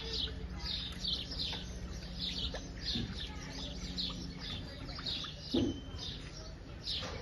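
Caged birds chirping: many short, high, falling chirps, several a second, over a faint low steady hum.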